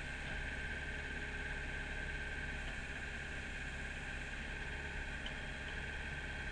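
Kubota mini excavator's diesel engine running steadily, with a constant whine from the machine.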